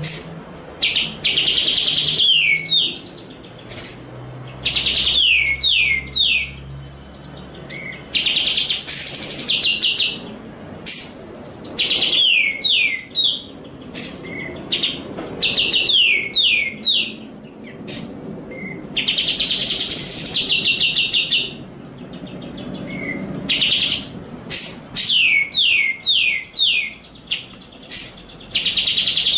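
A songbird sings a recorded master song in repeated loud phrases, each a second or two long and separated by short pauses. Some phrases are fast high trills and others are strings of quick falling whistled notes.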